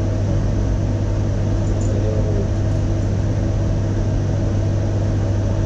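Keeway KLight 202's single-cylinder carburetted engine idling steadily, a constant low hum, while its carburettor is being adjusted.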